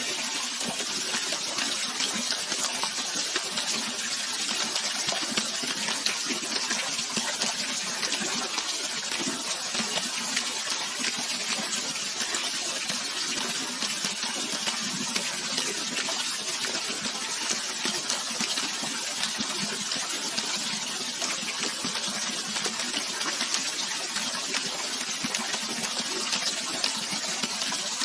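Flowing water rushing steadily: an even, unbroken hiss with no pauses or changes.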